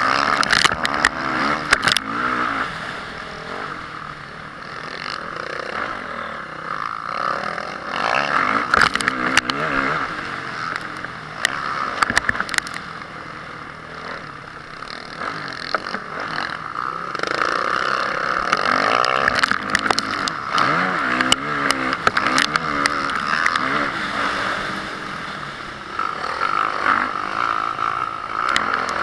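Honda CRF450R's single-cylinder four-stroke motocross engine revving up and falling off again and again under racing load. Knocks, clatter and scraping from the bike run through it.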